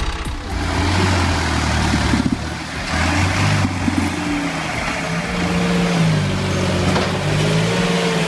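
Tractor engine running under load, its pitch rising and falling as the revs change.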